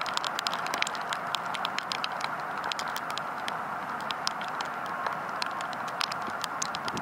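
Steady rain, an even hiss dotted with many sharp, irregular drop taps close by.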